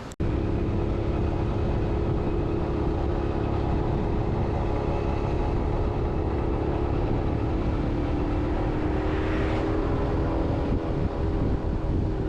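A motor vehicle's engine running steadily under a heavy low rumble, with its engine note drifting slightly upward near the end.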